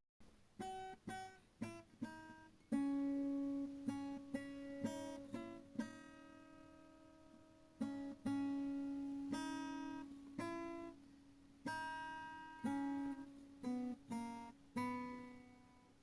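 Background music: an acoustic guitar playing a slow plucked melody, its notes ringing out and fading, some held for a second or two.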